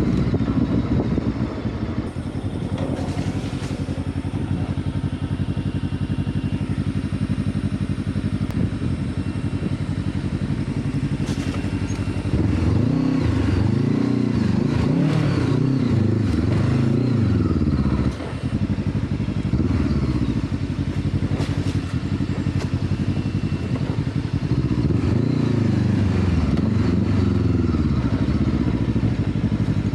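Adventure motorcycle engine running under a rider over rough river-bed ground, fairly steady at first, then from about halfway revving up and down again and again as the throttle is worked. Occasional knocks and clatter from the bike over stones.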